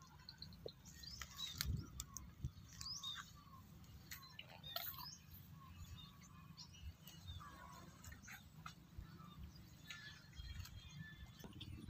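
Birds chirping faintly and on and off in short calls, over a low rumble.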